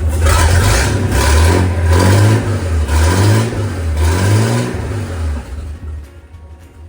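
Freshly overhauled Chris-Craft Model W six-cylinder engine (a marinized Hercules WXLD) running, revved up and back down about four times; near the end the sound drops away.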